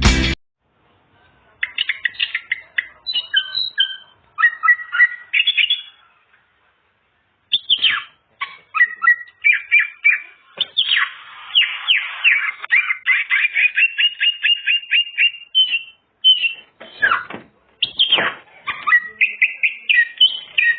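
Green leafbird (cucak ijo) singing a long, varied song of quick whistled notes, chirps and fast trills, its repertoire of mimicked phrases. A short pause comes about six seconds in, and a few loud, sharp notes near the end.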